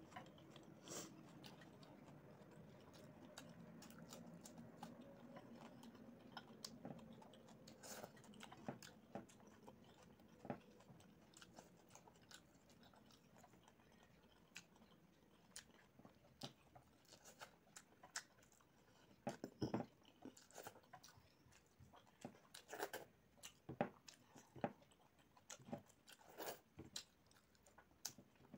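Faint, close-miked eating by hand: soft chewing and scattered mouth clicks and smacks as rice and curry are eaten, with fingers working over the plate.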